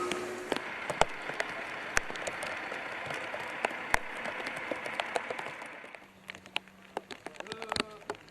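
Heavy rain pattering on a hard surface, a steady hiss with sharp drop impacts. About six seconds in it thins out to scattered separate drips and taps.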